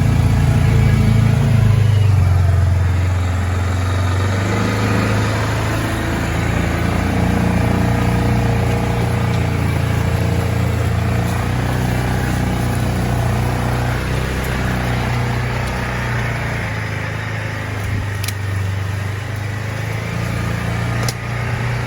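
Polaris Ranger 570 side-by-side's single-cylinder engine pulling steadily under load in low range while climbing a steep hill, its pitch shifting slightly early on and then holding. The stock exhaust is quiet.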